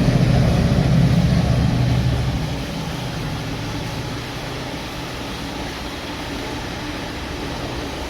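Class 68 diesel-electric locomotive 68003 passing: its engine drone is loud for the first two seconds or so, then drops away, leaving the steady rolling noise of the train going by.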